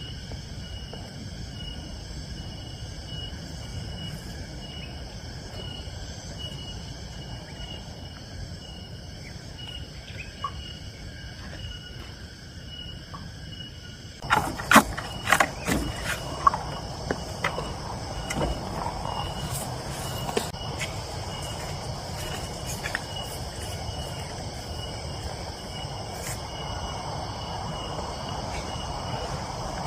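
Forest insects chirping steadily, a regular pulsing high note. About halfway a quick run of sharp knocks and clicks breaks in, the loudest sounds here, and a louder rustling hiss carries on after them.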